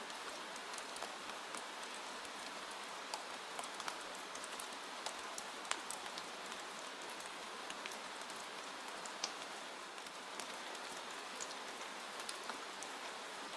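Steady rain with individual drops ticking sharply against a window pane over a continuous hiss.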